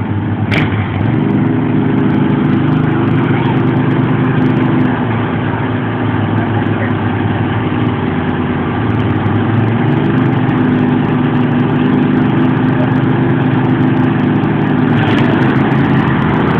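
Two tractor engines running together at a steady, fairly high speed, their pitch shifting slightly now and then. A single sharp click comes about half a second in.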